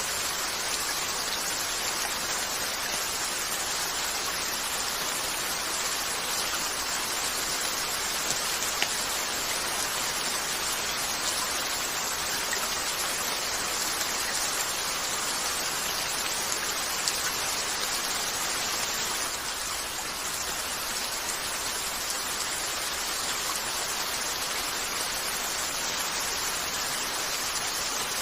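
Steady rain falling on a window, an even hiss, with a few sharp pops over it.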